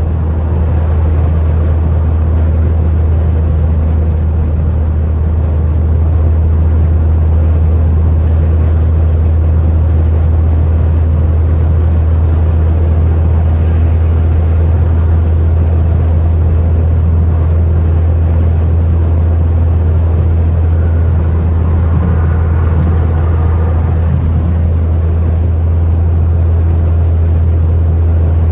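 Straight-piped Chrysler 300C's Hemi V8 exhaust giving a loud, steady low drone at a constant engine speed, with no revving.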